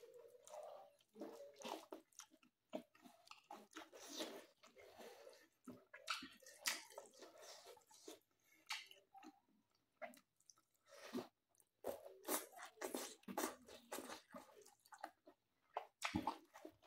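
A person chewing mouthfuls of mutton, rice and squash leaves, in quick irregular bites with short pauses between.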